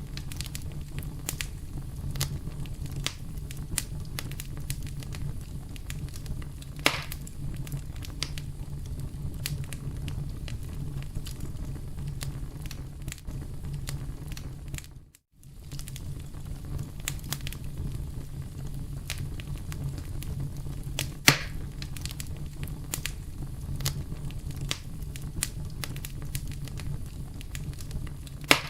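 Campfire burning: constant small wood crackles over a low steady rumble of the flames, with a few louder sharp pops, about 7 s and 21 s in and at the very end. About halfway through the sound drops out for under a second, then resumes.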